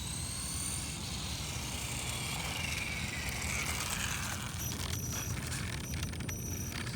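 Electric motor whine of an RC drag car, falling in pitch over the first few seconds as it slows, over a steady low background; a few faint clicks follow later on.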